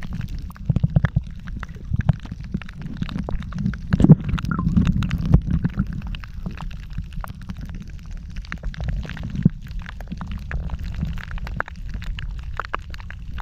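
Underwater sound picked up by a submerged camera: a steady low rumble with many scattered sharp clicks and crackles.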